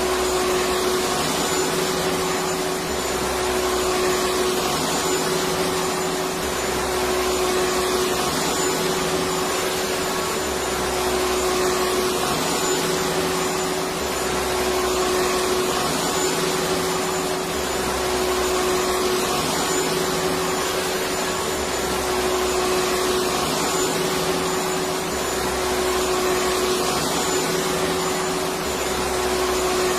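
Electric vacuum cleaner running steadily: a continuous, even whooshing roar of motor and airflow, with a constant hum-like tone in it and no change in speed.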